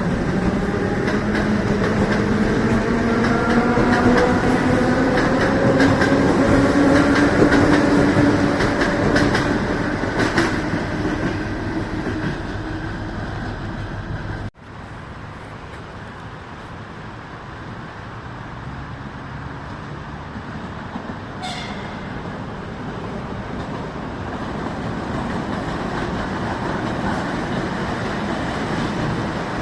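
A train running on the rails, with a whine that rises slowly in pitch as it gathers speed. About halfway through, the sound cuts off abruptly to a quieter, steady train rumble that slowly grows louder, with one brief high squeak roughly two-thirds of the way through.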